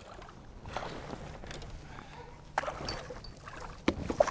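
A few light knocks and clicks on a kayak, with faint water sloshing underneath.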